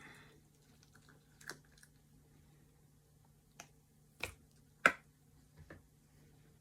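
Scattered sharp clicks and taps of a cast piece being worked out of its mould and handled, the loudest about five seconds in, over a faint steady hum.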